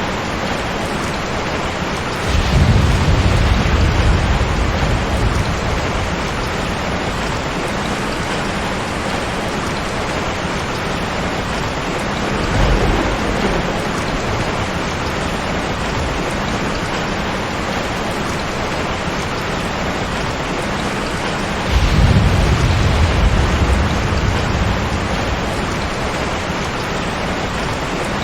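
Steady heavy rain with rolling thunder: a loud low rumble about two seconds in, a weaker one near the middle, and another loud rumble about three-quarters of the way through, each fading over a few seconds.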